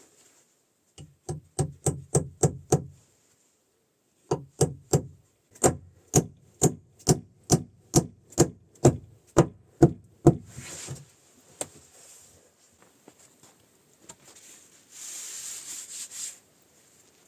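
Hammer blows on wood in two quick runs of steady strikes, about two a second, followed by two short stretches of scraping.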